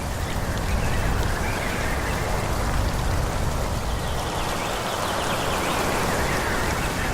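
Steady rushing forest ambience: a dense, even noise with a deep low rumble underneath, holding level throughout.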